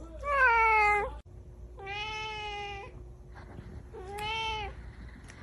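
A cat meowing three times in long drawn-out meows. The first is the loudest, about a second long and falling slightly in pitch; the third is shorter.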